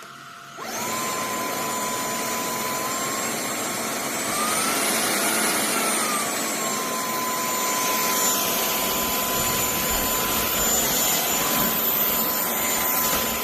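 KCLASO cordless stick vacuum switched on, its motor spinning up within a second to a steady high whine over rushing air. About four seconds in, the whine rises in pitch for a couple of seconds, then settles back and runs on.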